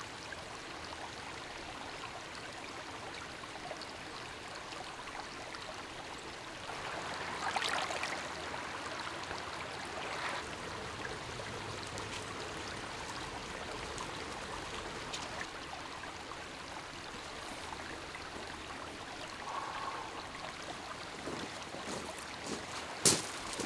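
Lake water lapping gently at the shore: a steady wash, a little louder about seven or eight seconds in. A single sharp click near the end.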